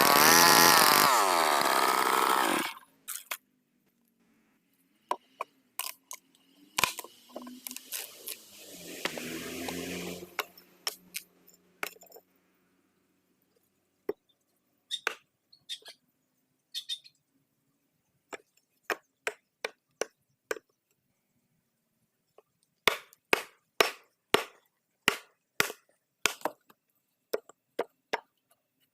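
A power woodworking tool running with a steady motor whine, then cutting off about two and a half seconds in. After that, scattered knocks of wood and tools, and near the end a run of sharp taps, about two a second, like a hammer or mallet striking wood.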